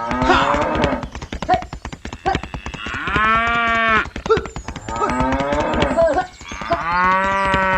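Cow mooing twice, each call about a second long, over rapid clicking and clatter throughout.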